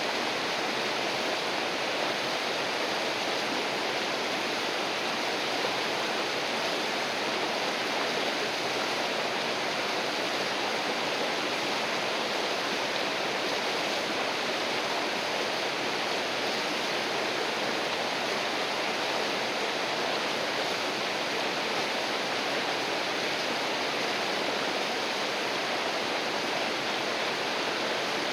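River water rushing and splashing in a steady, unbroken rush.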